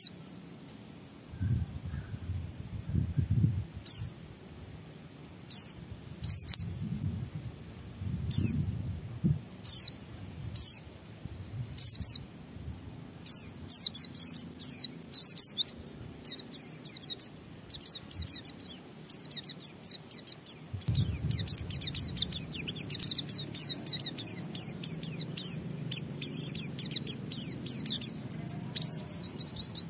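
White-eye (pleci) singing: single high chirps about once a second at first, then about a third of the way in the song breaks into rapid, almost continuous high chattering, the sustained 'ngalas' style of song. A faint low rumble sits underneath at times.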